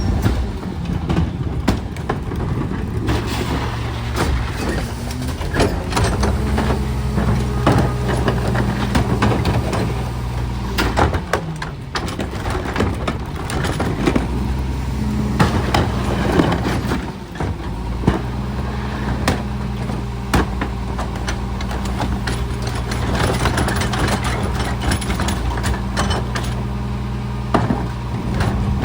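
Garbage truck engine running steadily, with frequent clanks and knocks throughout.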